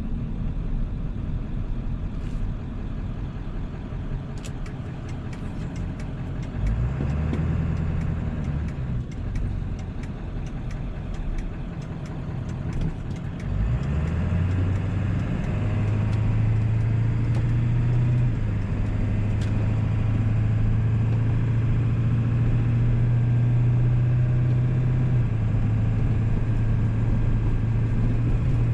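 1997 7.3 Powerstroke turbo-diesel V8 driving along: the engine note rises about seven seconds in and falls back, then climbs again near the middle and settles into a steady, louder cruise.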